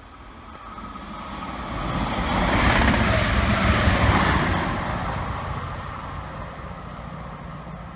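Arriva Trains Wales diesel passenger train passing through a station at full speed. Its noise builds over about three seconds, is loudest as the train goes by, then fades gradually.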